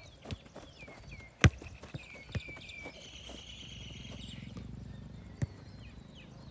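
Birds chirping in short downward-sliding calls, over several sharp knocks. The loudest knock comes about a second and a half in.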